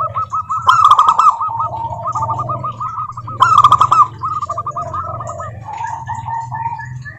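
Zebra doves (perkutut) singing: fast runs of short repeated cooing notes from several birds at once, overlapping. The song is loudest twice, about a second in and again about three and a half seconds in. A steady low hum runs underneath.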